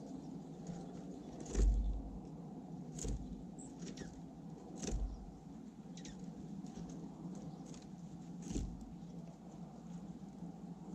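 Birds at a bird feeder: four sharp knocks and taps with a dull thump, the loudest about one and a half seconds in, and faint ticks between them, over a steady low rumble.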